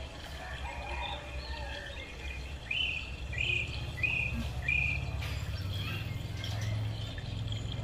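Birds calling outdoors: a run of four short, repeated chirps about half a second apart a few seconds in, among other faint bird notes, over a low steady rumble.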